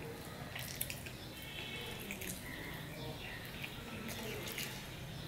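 Wet chewing and mouth smacking of a person eating ruti and fried egg by hand, close to the microphone, with scattered small clicks throughout.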